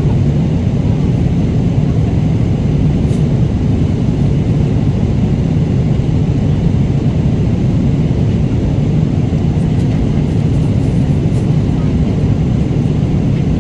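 Steady low rumble of an airliner cabin in flight, the engine and air-system noise, with a few faint clicks.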